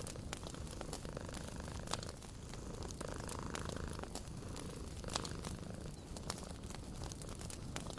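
A cat purring steadily over a wood fire crackling, with sharp pops scattered throughout.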